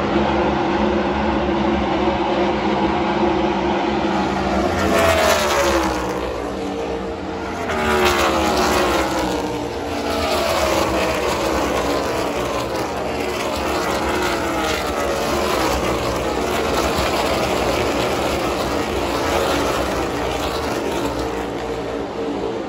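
A pack of NASCAR V8 race vehicles running at speed on the oval. Several sweep past with a falling pitch about five seconds in and again around eight to ten seconds in, under a continuous engine drone from the rest of the field.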